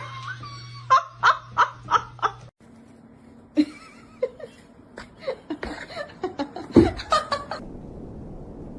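A person laughing in a run of short, evenly spaced bursts. A little later there is another, longer bout of laughter, loudest near the end.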